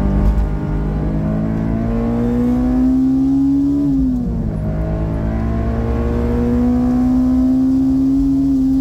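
Honda S2000's four-cylinder engine, heard from inside the cabin, pulling hard under acceleration with its pitch climbing, then a quick upshift about four seconds in drops the revs before it climbs again.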